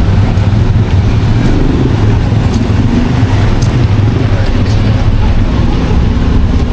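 Steady low rumble of road traffic and vehicle engines around a busy shopping-plaza car park.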